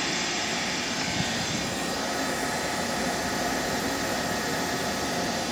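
Steady, even rushing noise of a running machine, with a few faint steady tones in it.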